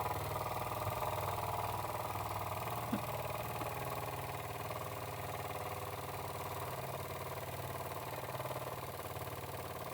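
Jensen #35 live steam engine running steadily at an even, smooth speed under its own steam pressure, with a quick, regular beat.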